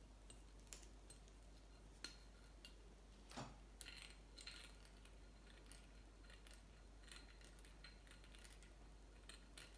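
Faint, scattered metallic clicks and short scrapes: the tip of a tiny screwdriver run along a bicycle thread to pick the dirt out of it.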